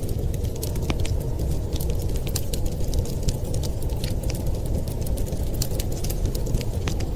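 Wood fire crackling, with many quick sharp pops and snaps over a steady low rumble.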